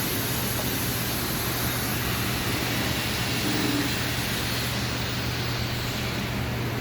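Steady background noise, an even hiss with a constant low hum under it.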